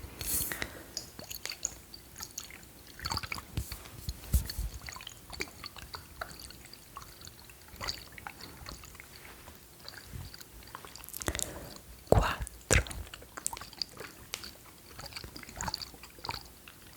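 Close-miked ASMR mouth sounds: irregular wet clicks and smacks, with louder clusters about three to four seconds in and again around eleven to thirteen seconds.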